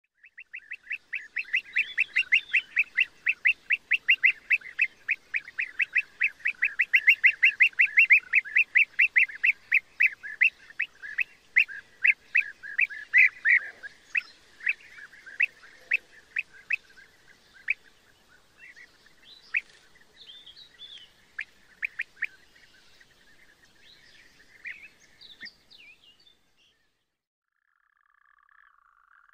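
A bird calling in a fast run of sharp, repeated notes, about five a second, which slows to scattered notes and fades out over the second half, with a few higher calls among them.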